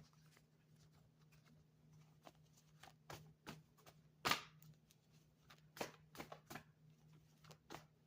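A deck of reading cards being handled and shuffled: scattered soft snaps and clicks, the loudest about four seconds in, over a faint low hum.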